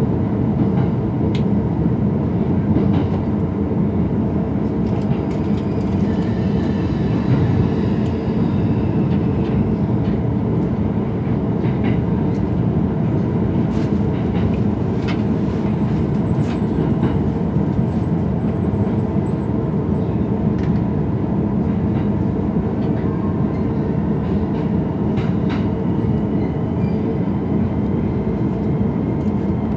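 Running noise inside the cabin of an E231-series electric commuter train: a steady rumble of wheels on rail with a few faint clicks scattered through it.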